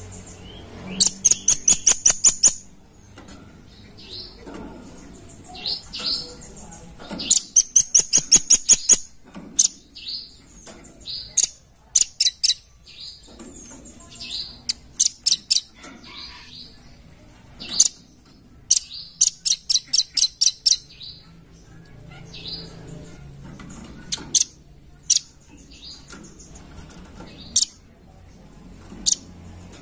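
Velvet-fronted nuthatch calling: fast runs of sharp, high-pitched notes, about six a second, with single notes scattered between the runs.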